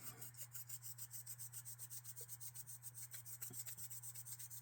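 A pad being scrubbed quickly back and forth over the lock-side handle part of a disassembled Benchmade knife: a fast, even run of short scratchy rubbing strokes, about eight a second, polishing the metal to clean off residue and surface rust.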